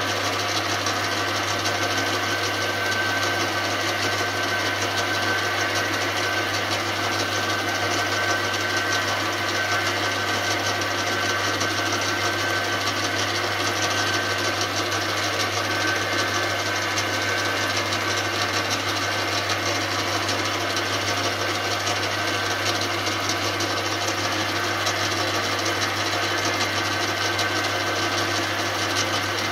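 Small metal lathe running steadily with a constant motor hum, spinning a fork-cap preload adjuster while a Scotch-Brite abrasive pad is rubbed against it to finish the metal.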